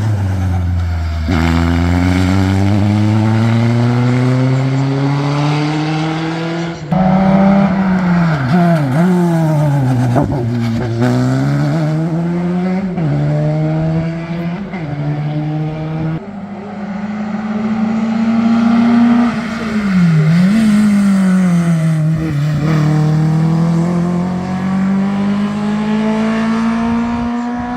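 Historic race car engine at full throttle on a hill climb, its pitch climbing through each gear and dropping sharply at every upshift. It dips and rises again with throttle blips on downshifts into corners around the middle of the clip and again later on.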